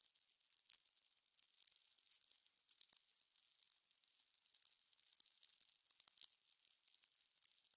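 Fire crackling: a soft hiss with quick, irregular little pops and snaps, thin and high-pitched.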